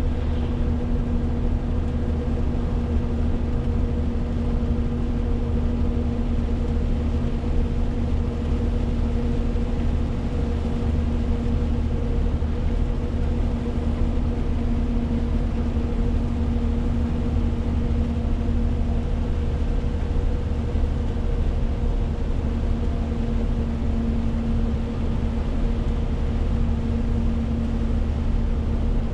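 Renault T520 truck driving at a steady pace: its diesel engine running with an even drone and a steady hum, mixed with tyre and road noise.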